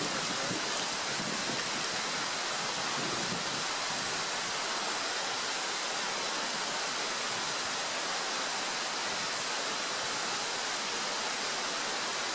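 Lorne (square steak) sausage frying over the camp stove or fire: a steady, even sizzle with no break.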